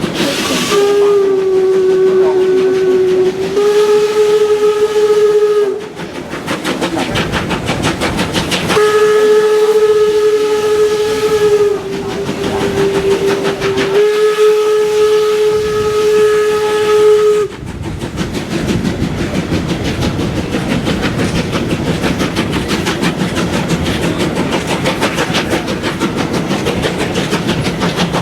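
Steam whistle of the Swedish steam locomotive SJ 1916 sounding two long blasts, the second longer and dipping in pitch partway, over the rhythmic running noise of the moving train. After the second blast only the train's steady rhythmic running is left.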